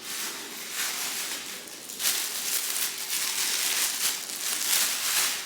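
Packaging rustling and crinkling as it is handled and pulled out during an unboxing, in uneven waves.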